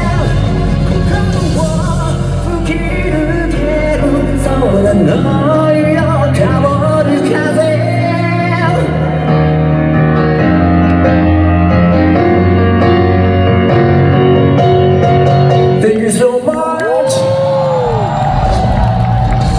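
Live J-rock band playing loudly in a large hall, with drums, bass and guitars under a male lead vocal. About sixteen seconds in the band briefly drops out and a held, gliding vocal line carries on.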